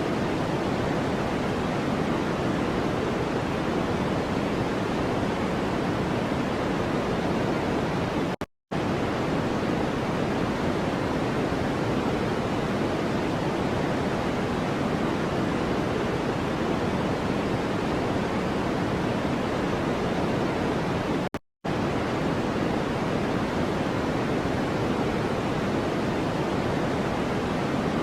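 Steady generated noise, a hiss weighted toward the low end like pink noise. It cuts to silence for a split second twice, about thirteen seconds apart, as a looped noise track does at its loop point.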